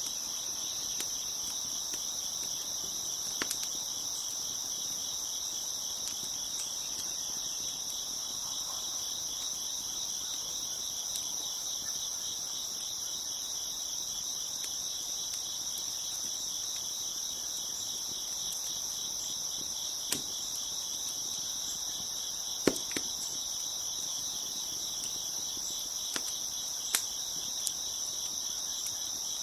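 Steady chorus of crickets chirping, with a handful of sharp pops and snaps from a crackling wood fire, the loudest about two-thirds of the way through.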